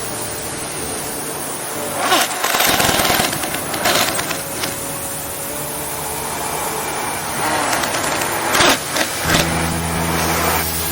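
Heavy-machinery assembly workshop noise: machinery running steadily, with several sharp metal clanks and short noisy bursts, and a steady low hum starting near the end.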